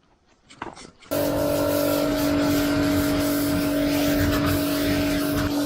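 A few faint clicks, then about a second in a machine starts up abruptly and runs steadily at one constant pitch with a hum and a hiss.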